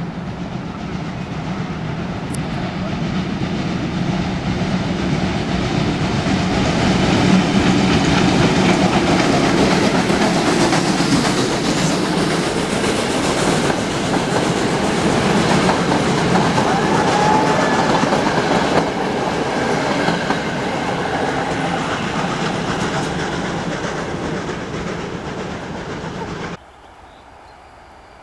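Pt47 steam locomotive passing with its passenger train, the wheels clattering over the rail joints. It grows louder as it approaches, stays loud, and cuts off suddenly near the end.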